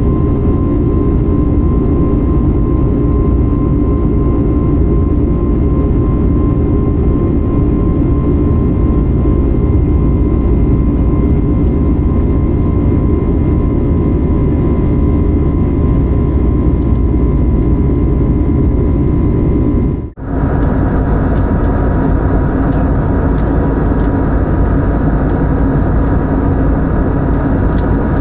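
Jet airliner cabin noise at a window seat: a loud, even rumble with steady engine tones. It drops out for an instant about twenty seconds in and comes back with more hiss.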